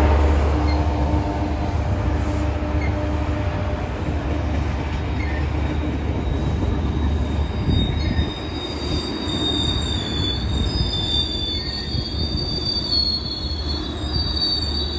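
Metrolink commuter train of bilevel coaches passing at track side. A low rumble with a steady hum fades over the first half. About halfway through a high, wavering wheel squeal starts and carries on as the cars roll by.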